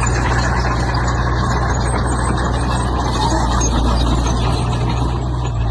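Diesel engine of heavy construction machinery running steadily, with a dense metallic clatter over it.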